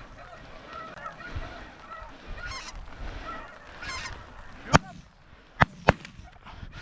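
A flock of snow geese calling with repeated short honks, then three shotgun blasts, the first a little under five seconds in and two close together about a second later.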